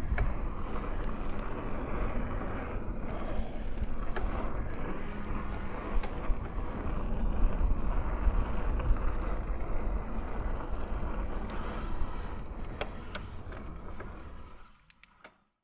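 Mountain bike ridden on a trail: wind buffeting the microphone over the rumble of the tyres, with a few sharp clicks and rattles. The sound fades out near the end.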